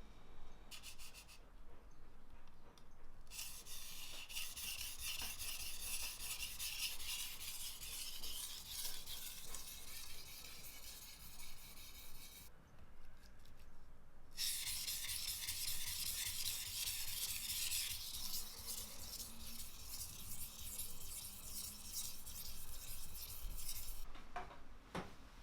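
Kitchen knife blade stroked back and forth on a whetstone, a gritty scraping made of many quick strokes. It comes in two long runs with a pause of about two seconds between them.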